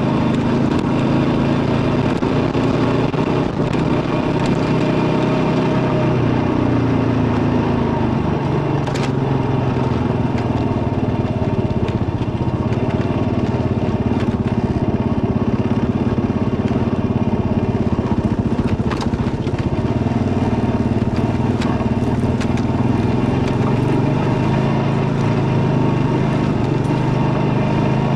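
Kawasaki KLR650's single-cylinder four-stroke engine running steadily while riding, its pitch rising and falling slightly with the throttle, with a few short clicks now and then.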